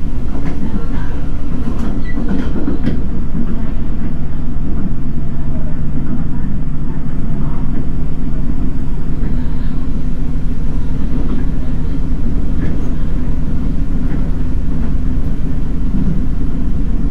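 Inside a Taiwan Railways DRC1000 diesel railcar running at about 70 km/h: the steady low rumble of the wheels on the rails and the car's diesel drive. A steady low hum joins about four seconds in.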